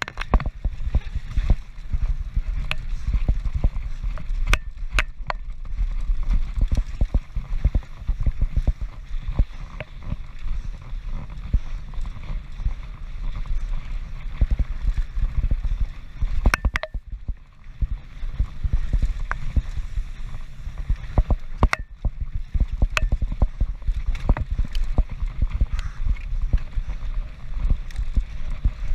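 Mountain bike descending a rough race course at speed, filmed by a GoPro: wind rumbling on the microphone over the clatter and knocks of the bike's chain and frame on bumps and rocks, with a brief lull about 17 seconds in.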